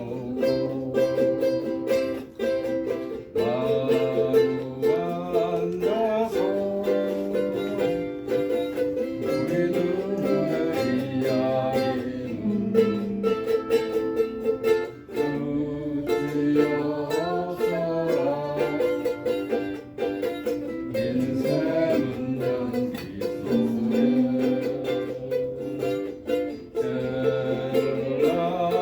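Ukulele playing a tune, a melody line over plucked chords.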